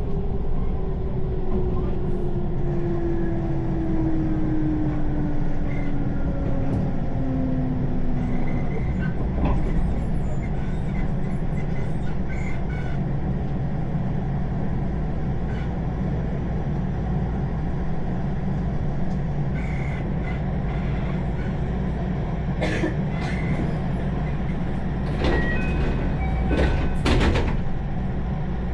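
Electric passenger train running, heard from aboard: a steady low rumble of wheels on rail, with a motor whine that falls in pitch over the first several seconds. A few sharp clicks and squeaks come near the end.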